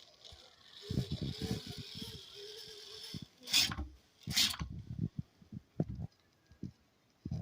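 Gear drive of a radio-controlled model tractor running in short spurts: a steady whine with rapid gear clicking for about two seconds, then two short rushes of noise and a few scattered clicks before it stops.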